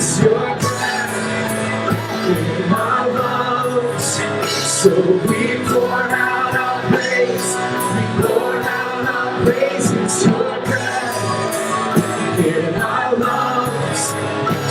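Live worship band playing with drum and cymbal hits, with voices singing over it.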